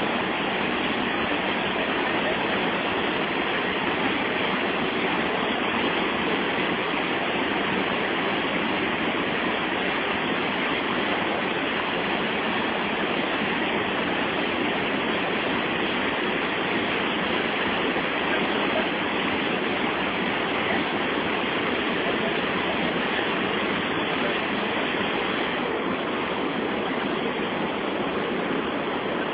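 Rushing water of a large waterfall's rapids, a steady unbroken rush with no change in level.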